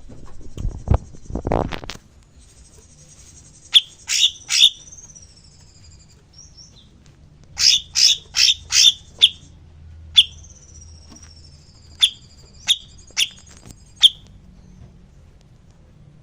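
A songbird calling: loud, sharp chip notes, three together, then a fast run of about six, then several spaced out one by one, with thin high whistles sliding down in pitch between them. A few low thumps come in the first two seconds.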